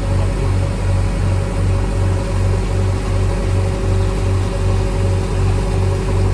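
Heavy construction machine's diesel engine running steadily, with a regular low throb of about three to four pulses a second; a steady higher whine joins in about two seconds in.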